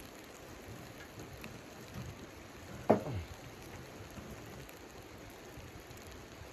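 A steady soft patter like precipitation falling on a surface, with one sharp knock about three seconds in.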